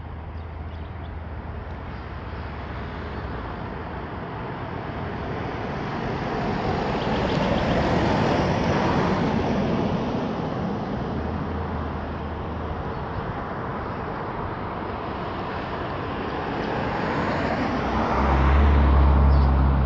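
Road traffic passing: a rushing noise that swells to a peak about eight seconds in, fades, and builds again near the end with a low rumble.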